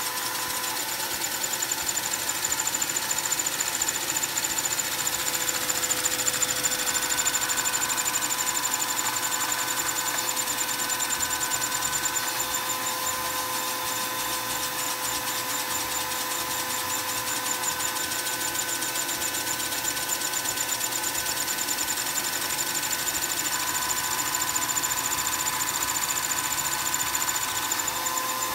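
A vacuum cleaner's motor whining steadily while the single-cylinder Lego vacuum engine it powers runs, its plastic piston, valve and flywheel clattering quickly.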